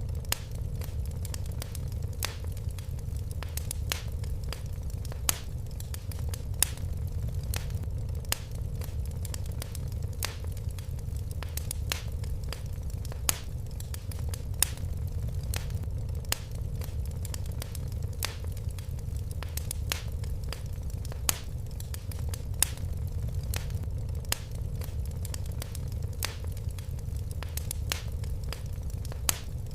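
Fireplace fire crackling: a steady low rumble of flames with many irregular sharp crackles and, every few seconds, a louder pop.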